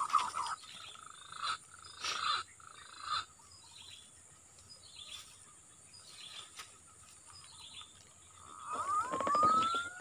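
Whistled bird calls in short bursts, then a longer rising whistle near the end.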